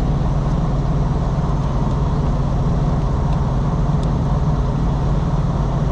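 A vehicle engine idling, a steady low hum with a few faint ticks over it.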